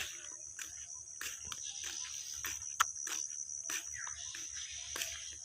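Steady high-pitched trill of crickets, with irregular short clicks and knocks throughout; the sharpest comes a little under three seconds in.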